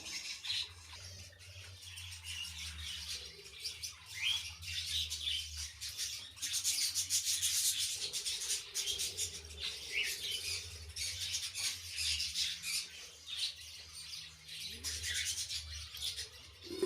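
Lovebirds giving short chirps now and then over continual scratchy rustling, with a steady low hum beneath.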